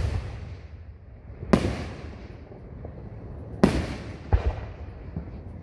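Fireworks exploding: three sharp booms, about a second and a half in, near four seconds and again just after, each followed by a long rolling echo that fades away.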